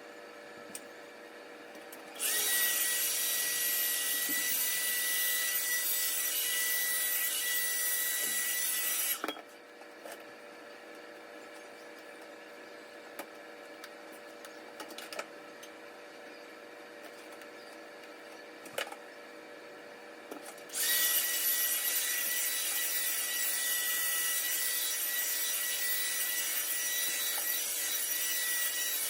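A small machine running with a steady high whine and hiss, switched on twice for several seconds each time, with quieter room tone and a few clicks in between.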